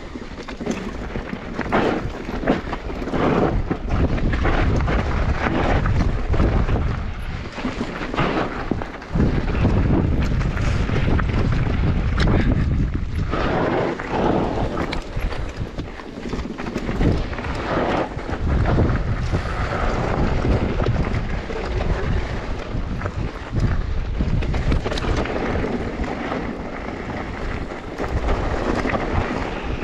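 Wind rushing over the microphone, mixed with the rattling and knocking of a mountain bike riding downhill over a rough trail.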